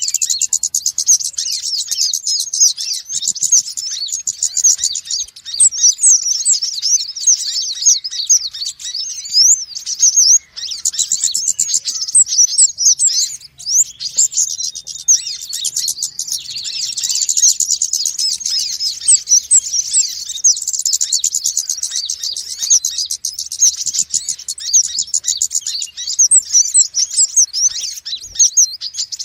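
Small Indonesian sunbirds, the konin and the wulung, calling busily: a dense run of rapid, high-pitched chirps and trills from several birds with hardly a break, used as a lure call for trapping sunbirds.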